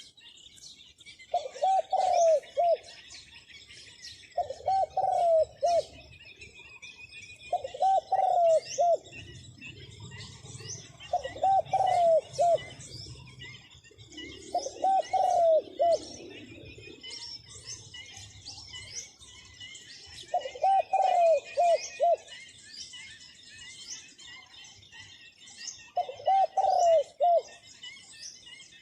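Zebra dove singing: seven short cooing phrases, each a quick run of notes, coming every few seconds. Small birds chirp and twitter continuously in the background.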